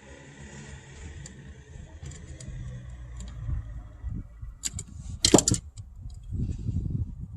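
Hands working on speaker wiring and parts: low rubbing and knocking, a few light clicks, and a loud burst of sharp clicking clatter about five seconds in.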